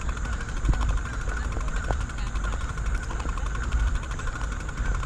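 Wind rumble and vibration noise on a bike-mounted action camera's microphone while cycling, with a couple of short knocks in the first two seconds.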